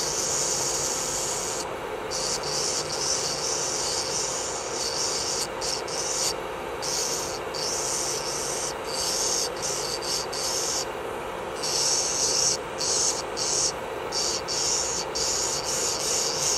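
Electric nail drill (e-file) running with a steady whine while its bit grinds gel off a nail, the high grinding hiss coming in passes broken by brief pauses as the bit is lifted and set back down.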